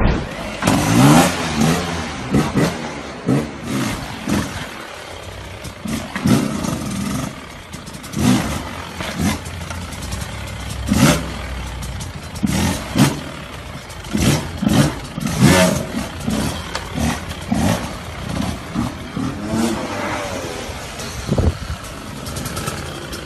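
Motocross dirt bike engines revving in repeated short bursts, the pitch swooping up and down, with sharp knocks scattered between.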